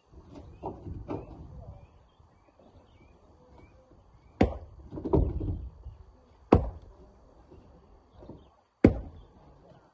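Heavy knocks of rock being worked by hand: three loud, sharp strikes about two seconds apart, with lighter knocks near the start and a short rattle of rock between the first two loud strikes.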